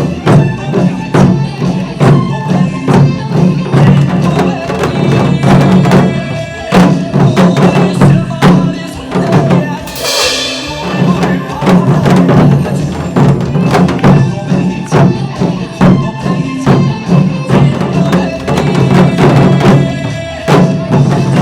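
Group of janggu hourglass drums struck in time with upbeat recorded backing music, a steady pulse of drum strokes throughout. A short cymbal-like crash comes about ten seconds in.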